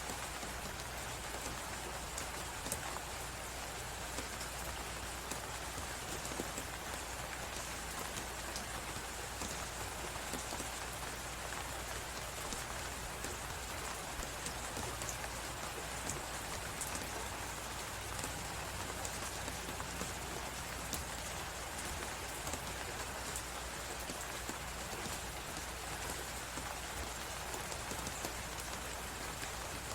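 Wood fire crackling with frequent small pops and ticks, over a steady hiss and low rumble of blizzard wind.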